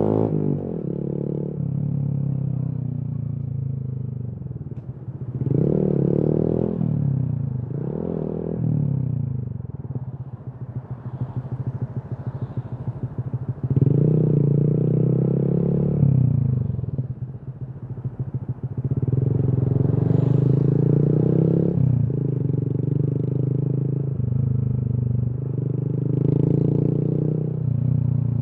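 Honda MSX/Grom 125's single-cylinder four-stroke engine through an aftermarket Kemimoto exhaust, ridden in traffic. It pulls up through the revs several times, with a step down in pitch at each gear change. Between pulls are stretches of low, uneven running off the throttle.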